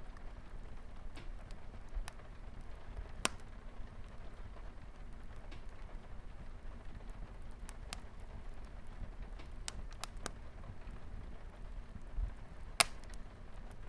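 Wood fire crackling, with sharp pops at irregular intervals; the loudest comes near the end. A steady soft hiss of light rain runs underneath.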